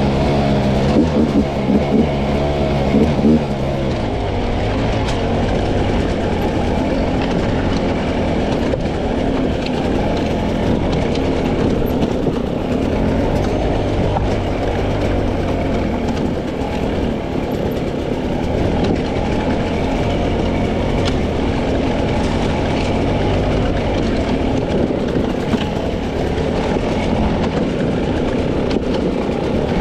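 300cc two-stroke dirt bike engine under way off-road, revving up and down in short swells for the first few seconds, then running steadily at an even pitch.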